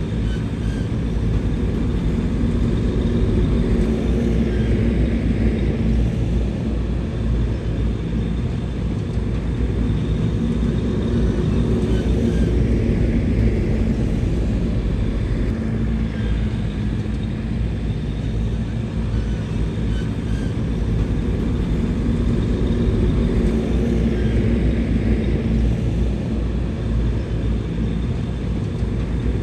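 Bulldozer's diesel engine running steadily, with no break.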